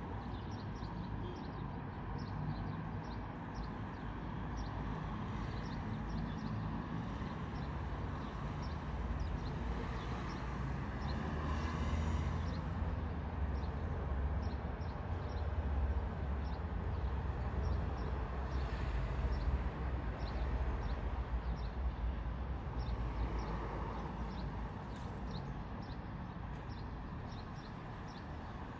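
Outdoor ambience: a low wind rumble on the microphone that swells in the middle, under a steady run of short high chirps or ticks, several a second, from small animals.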